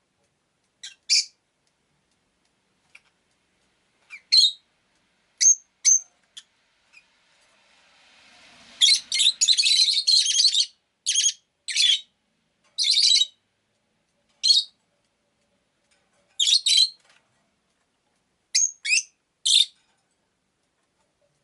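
Peach-faced lovebird (Agapornis roseicollis) giving short, sharp, high-pitched chirps in scattered ones and twos, with a quick run of chirps about nine to eleven seconds in.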